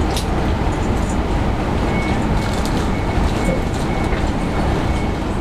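Passenger train running noise: a steady rumble, with a short high beep repeating about twice a second from about two seconds in.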